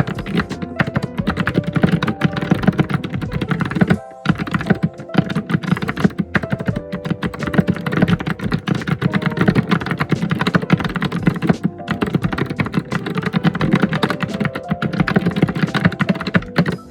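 Fast, continuous typing on a computer keyboard, with background music underneath. The typing breaks off briefly about four seconds in and stops near the end, leaving the music.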